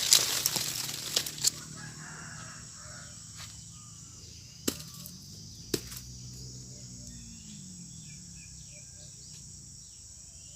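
Broken mango branch leaves rustling and crackling for about the first second and a half, then a steady high insect drone, broken by two sharp clicks near the middle.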